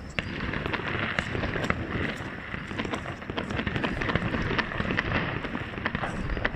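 Fireworks going off in a dense barrage: many sharp pops and cracks overlapping a continuous crackle and rumble of distant bursts.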